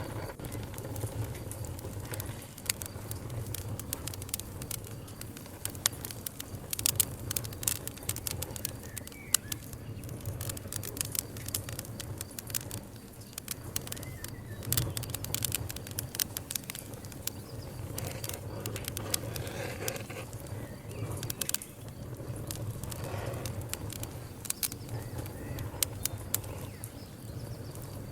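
Wood campfire crackling: a dense, irregular run of sharp pops and snaps over a steady low rumble of the flames.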